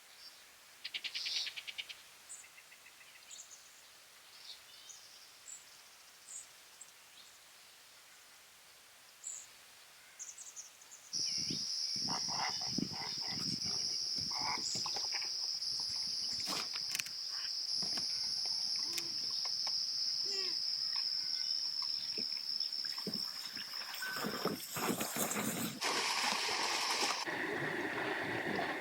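An insect chorus holding a steady high buzz, starting suddenly about eleven seconds in, over scattered small clicks and knocks. Before that there is only faint outdoor background with a few chirps.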